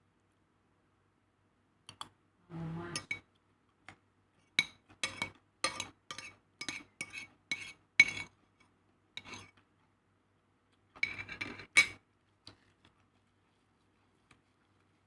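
Cutlery clinking against a plate or dish. A short scrape comes about two and a half seconds in, then a run of about ten sharp clinks over some four seconds, then another quick flurry of clinks later on.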